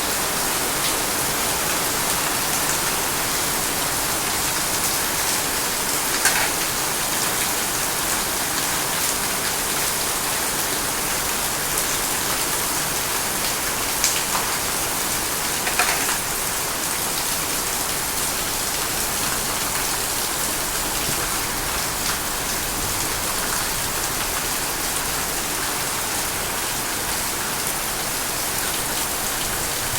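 Heavy rain falling steadily, a constant even hiss, with a few sharp taps standing out about six, fourteen and sixteen seconds in.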